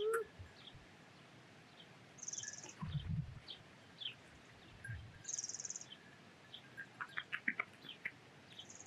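Small birds chirping, with a short buzzy call repeated about every three seconds among scattered brief chirps. A soft low thump comes about three seconds in.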